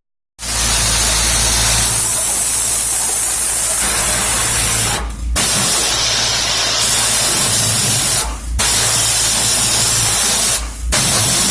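Loud spray hissing in long bursts onto an engine being degreased, with a steady low hum beneath. It stops briefly three times, about five, eight and eleven seconds in.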